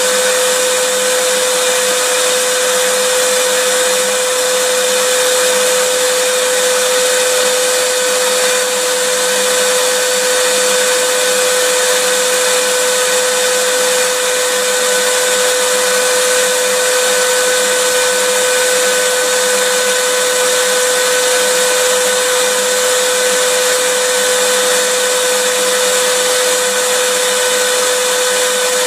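Vacuum cleaner running steadily: an even, unbroken hiss with a constant whine held at one pitch.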